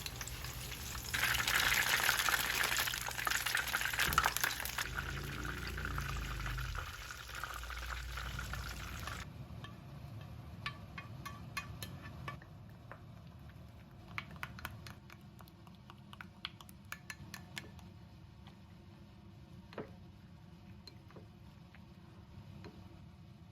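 Kitchen cooking sounds: liquid being poured, a steady rush loudest about a second to four seconds in, lasting about nine seconds and stopping suddenly. After that, scattered light clinks and taps of kitchen utensils over a quiet background.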